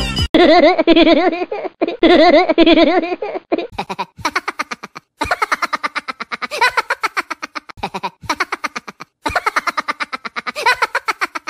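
A run of separate recorded laugh clips, one after another with short breaks between them: first two laughs with a wavering pitch, then several bouts of quick ha-ha-ha laughter.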